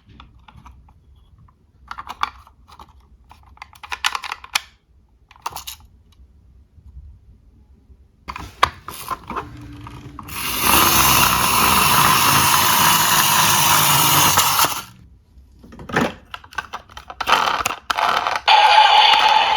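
Diecast toy police cars clicking and rattling as they are handled. A loud steady rushing noise runs for about four seconds in the middle, and near the end a toy police car's siren starts.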